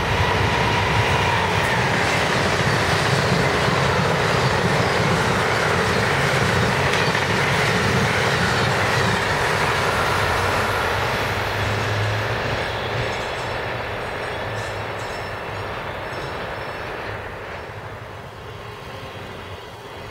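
Amtrak electric passenger train passing close by, its wheels rumbling and clattering on the rails. The noise fades steadily from about halfway through as the train pulls away.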